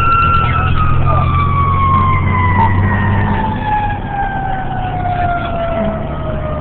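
Fire engine siren sounding a single tone that holds briefly, then falls slowly and steadily in pitch as it winds down, over the fire engine's low, steady engine running.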